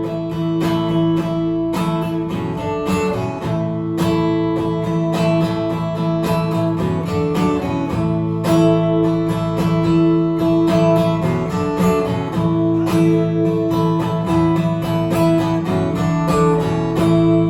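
Live acoustic guitar strummed in a steady rhythm with held chords and no singing: the instrumental ending of a song.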